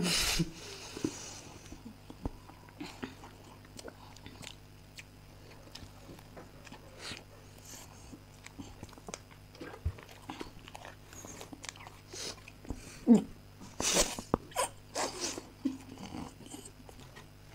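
Chewing and mouth noises of people eating chocolate cake, with many small scattered clicks and a few louder noisy bursts near the end.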